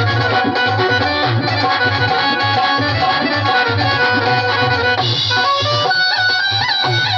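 Instrumental Mewati folk music: a steady drum beat under a sustained, reedy melody. About five seconds in, a higher melodic line with sliding pitch bends comes in.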